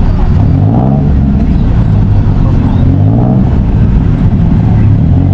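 A motor vehicle engine running close by, its pitch rising and falling as the revs change.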